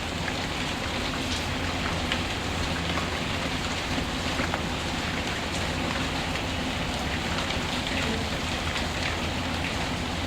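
Steady rain, a continuous even patter with scattered light ticks of individual drops.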